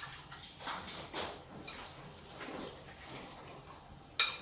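Kitchen handling sounds: a few light knocks and rustles of containers and utensils, then one sharp clack a little after four seconds in, the loudest sound.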